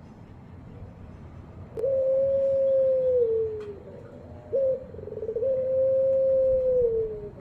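Puter pelung dove (barbary dove) cooing: a long, low, steady coo that falls away at its end, then a short note, then a second long coo that falls away the same way.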